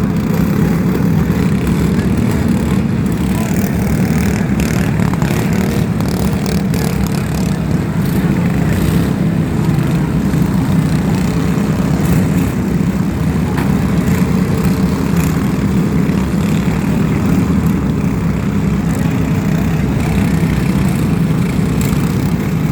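Loud, steady din of small riding-lawn-mower engines running together, with no single engine standing out.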